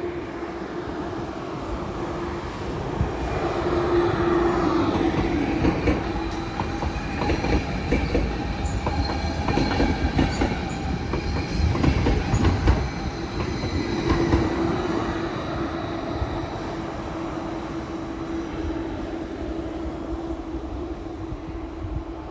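A train passing close by with a steady hum. Its wheels clatter over the rail joints in a run of knocks that is loudest around the middle, with a faint high whine, then the sound fades away.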